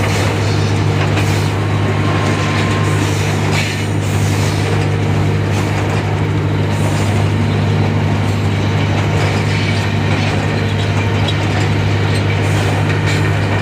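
Diesel-electric locomotive running steadily under way, heard from inside the cab: a constant low engine drone with rattling wheel-and-track noise over it.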